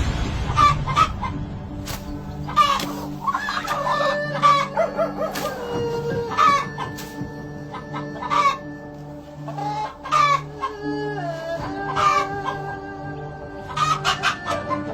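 Chickens clucking and calling repeatedly, over background music.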